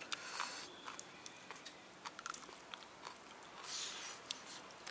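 A person biting into and chewing a spicy masala-fried chicken leg close to the microphone: faint mouth sounds with scattered small clicks and a couple of short hissy breaths.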